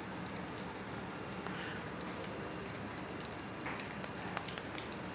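Egg- and breadcrumb-coated chicken kababs shallow-frying in hot oil in a pan: a steady sizzle with small scattered crackles.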